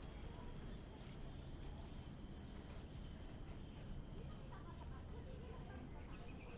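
Faint forest ambience: a low steady rumble under a thin, high, steady insect-like tone, with faint distant voices and a short high bird-like call about five seconds in.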